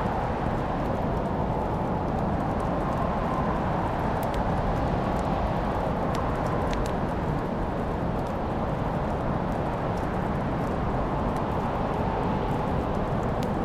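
Wood fire burning in a fireplace: a steady low rush of flames with a few sparse, sharp crackling pops.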